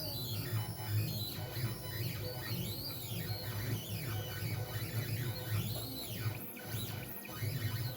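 Stepper motors of an Onefinity CNC pen plotter moving the pen across the drawing. They whine in arcs, the pitch rising and falling again and again as the axes speed up and slow down, over a steady low hum.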